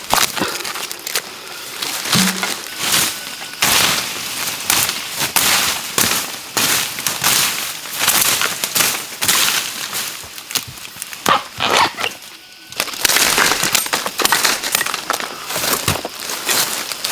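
Continuous irregular crackling, snapping and rustling of dry plant material, with a couple of brief dog-like yelps, one about two seconds in and one near the middle.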